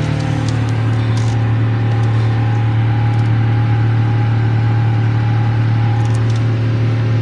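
Lincoln car engine running steadily at raised revs, its pitch dipping slightly about half a second in and then holding even. It is being held up during a throttle and injector relearn after a PCM reset, to clear a misfire that appeared after a tune-up; the engine's shaking has mostly settled.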